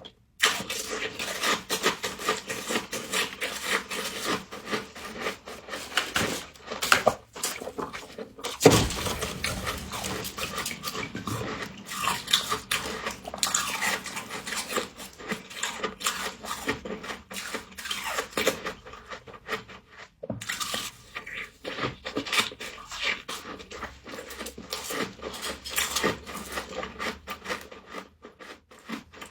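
Close-up crunching and chewing of frost, as a mouthful is bitten and ground. The crisp crunches come in an irregular run with short pauses.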